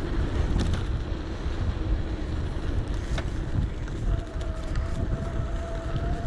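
Wind buffeting the action camera's microphone and rolling noise while riding an electric bike, with a low steady rumble and a couple of small knocks. About four seconds in, a steady high whine comes in and rises slightly.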